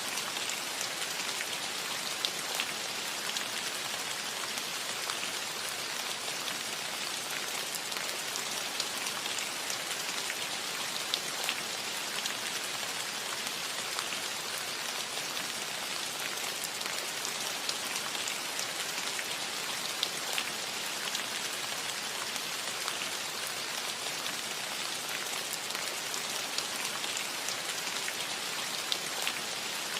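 Steady rain falling on a cottage roof: a dense, even hiss of drops with occasional sharper individual drop ticks.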